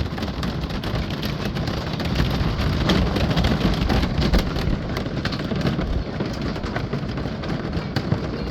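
Hail and rain pelting down in a storm: a steady, loud rush of rain with a dense scatter of sharp ticks and clatters from hailstones striking surfaces.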